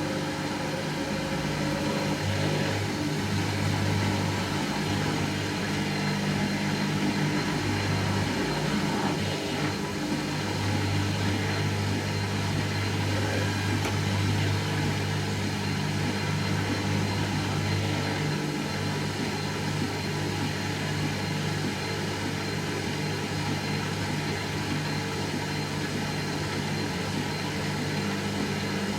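Hoover Nextra HNL71463D washing machine spinning on its fast final spin cycle: a steady motor and drum hum, with a low tone that drops out and returns a few times.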